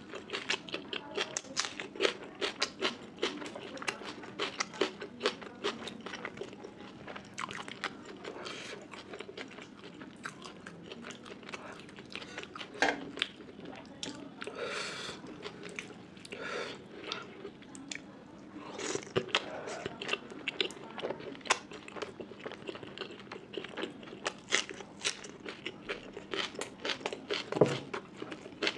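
A person chewing and biting food close to the microphone, with many short sharp mouth sounds, several a second.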